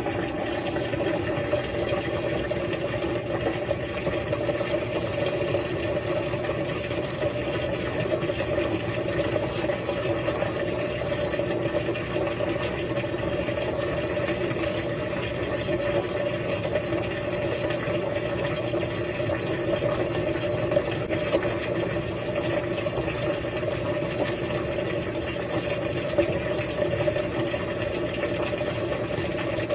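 RCA RPW302 portable washing machine in its drain cycle: a steady, even hum as the water is pumped out of the bottom of the tub.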